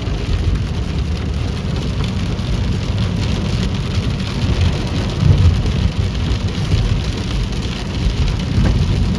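Heavy rain hitting a moving car, with a low rumble from wind buffeting the car and tyre noise, heard from inside the car. The rumble swells about five seconds in.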